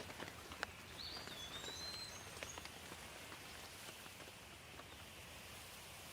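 Rain falling steadily, with scattered drops ticking close by. About a second in, a bird gives a whistled call that rises and then glides down.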